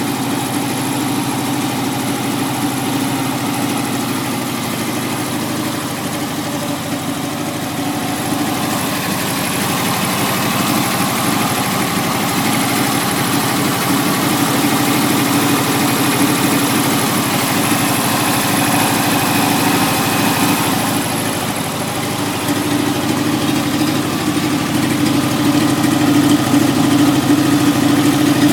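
1967 Porsche 912's air-cooled flat-four engine idling steadily, fed from a slave fuel supply. It gets a little louder about nine seconds in and again near the end.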